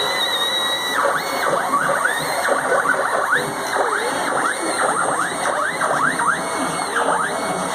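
CNC machine's axis drive motors moving all three axes together on a first test run. Their whine sweeps up and down in pitch many times as the axes speed up and slow down.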